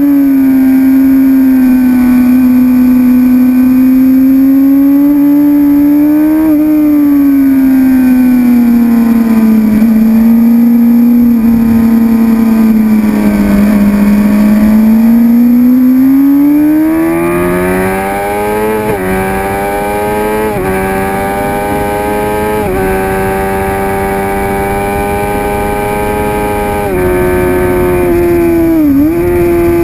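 2006 Suzuki GSX-R750's inline-four engine running hard at track speed. Its note sags slowly through the first half, climbs from about halfway, holds high in a few steps, and dips briefly near the end.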